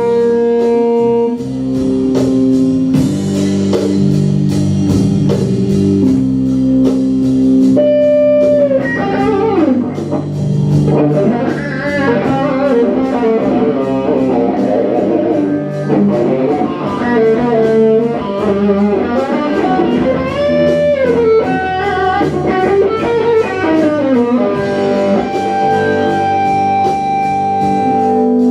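Live band playing an instrumental passage: an electric guitar lead with held, bent notes over bass and a steady drum beat.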